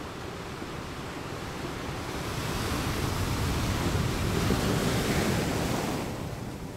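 Wind and surf on the shore: a rushing noise that swells to its loudest about four to five seconds in, then eases near the end, with wind buffeting the microphone.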